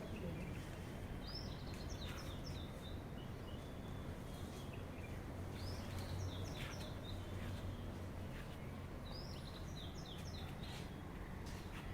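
A bird calls three times, each a short phrase of high notes stepping downward, about every three to four seconds, over a steady low background hum.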